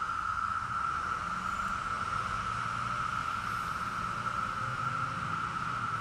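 Periodical cicadas chorusing: a steady, high, unbroken drone from a great many insects calling together in the trees.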